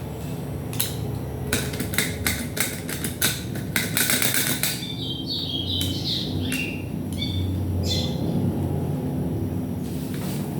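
A quick run of sharp clicks and taps from stereo parts being handled and pried apart, followed by a few short, high chirps from a bird.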